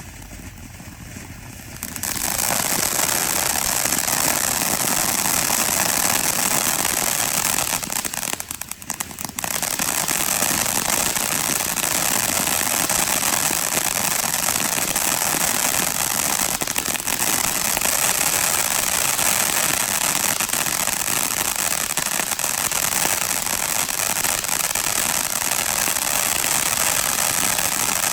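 Shogun 'Tailgate Party' 500-gram fountain firework spraying sparks with a dense hissing, sizzling crackle. It swells up about two seconds in and dips briefly near the middle.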